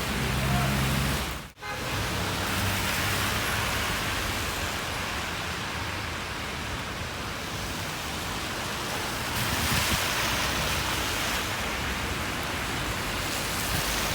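Steady hiss of heavy rain, broken by a brief dropout about a second and a half in.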